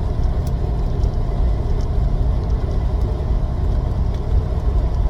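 Steady low engine and road drone inside a moving semi truck's cab.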